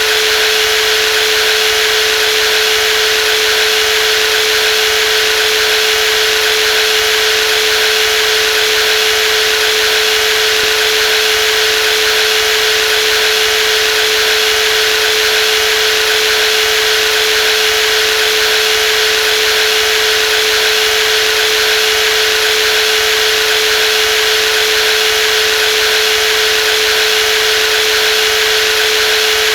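Brushless jigsaw running at a steady speed: a loud, unchanging hum with a hissing whine above it.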